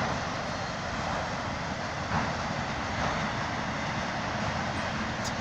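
BNSF freight train's cars rolling past: a steady rumble of wheels on the rails.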